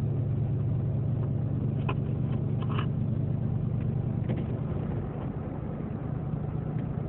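Steady low rumble of a truck's engine and road noise heard from inside the cab while driving, easing slightly about five seconds in.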